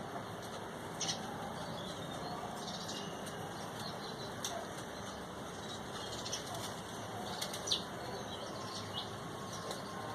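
Small birds' wings fluttering, with a few short chirps over a steady background hiss; the sharpest sounds come about one, four and a half and seven and a half seconds in.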